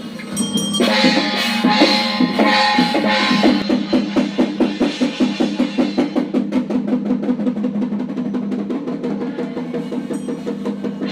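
Chinese temple ceremonial percussion music: drums with bright crashing hits in the first few seconds, then a fast, even drumbeat from about four seconds in, over a steady held tone.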